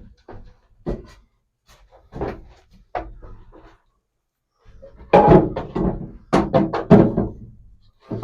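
Wooden 2x4 boards knocking and thunking as they are set down into the insets of a pickup truck bed: a few separate knocks, then a louder run of clattering knocks in the second half.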